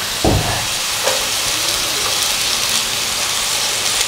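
Chopped vegetables sizzling in hot oil in a nonstick pan, a steady hiss. A dull knock just after the start.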